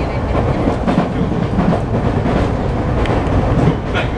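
Tokyu 3000 series electric train running, heard inside the passenger car: a steady wheel-and-rail rumble with a few sharp clicks from the track.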